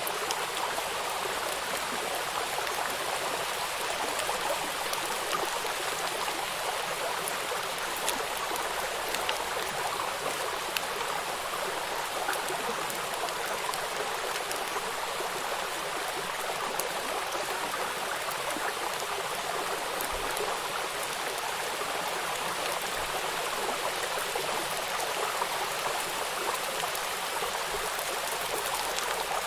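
Steady rush of a flowing river with raindrops pattering on the water, many small drop clicks scattered through the even hiss.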